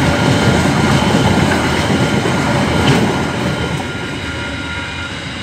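Freight train of container wagons rolling across a level crossing, wheels clattering over the rails. The sound fades over the last two seconds as the end of the train passes.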